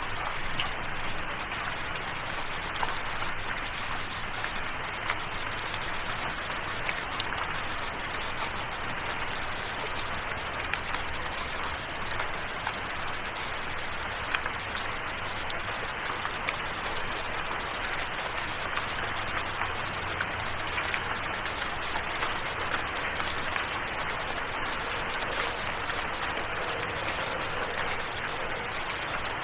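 Steady rain: an even hiss with many small scattered drop ticks.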